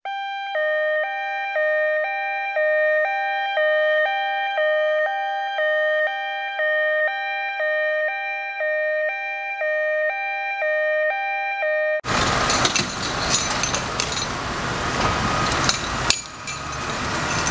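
Two-tone emergency vehicle siren, a high and a low tone alternating evenly and rapidly. About twelve seconds in it cuts abruptly to loud outdoor noise with scattered knocks and clatter.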